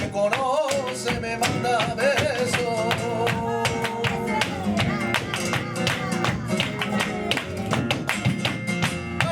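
Flamenco tangos played live: acoustic guitar with a male singer's wavering melody over roughly the first half, ending in a held note that falls away, and dense, sharp percussive strikes throughout.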